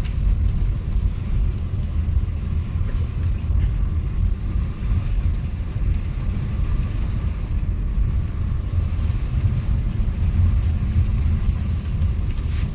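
Steady low rumble of a vehicle being driven along a road, engine and road noise heavy in the low end with no distinct events.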